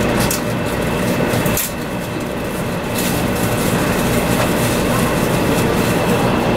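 Running noise of a 500 series Shinkansen heard inside the passenger cabin: a steady rumble and rolling noise of the wheels on the rails, with a faint steady hum. It drops a little in loudness for about a second, starting about a second and a half in.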